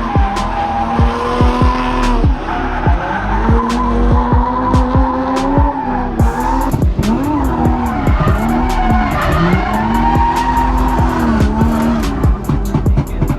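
BMW E36's 2.8-litre M52B28 straight-six revving up and down repeatedly while drifting, with tyres squealing.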